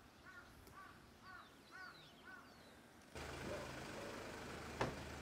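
A bird calls in a quick run of short notes, each rising and falling, about two or three a second. About three seconds in, the sound cuts to a steady outdoor din with a low hum under it, and a single sharp click comes near the end.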